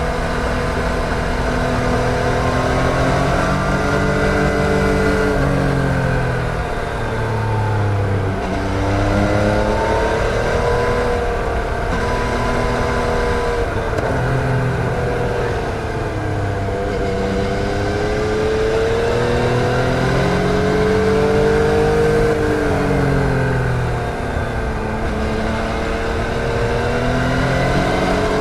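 Yamaha MT-09's 847 cc inline three-cylinder engine under way, its pitch rising and falling several times as the rider accelerates and rolls off the throttle.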